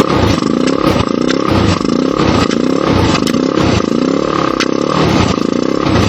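Motorcycle engine running loudly, its note rising again and again at about every half second.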